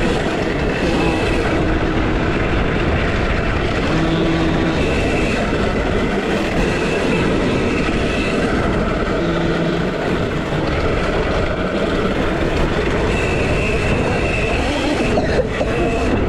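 A KTM SX-E5 electric youth dirt bike being ridden in a race: a loud, steady rushing noise, with short steady whines from the motor and drivetrain coming and going.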